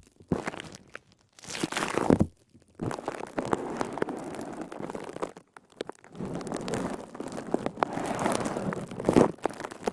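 A crackly sponge squeezed and kneaded close to the microphone, giving squishy, crackling crunches in several long bursts with short pauses between them.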